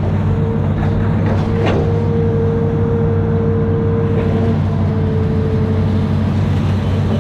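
Amphibious excavator's diesel engine running steadily under work, with a steady higher whine over it and a few short knocks about a second in and again near the middle.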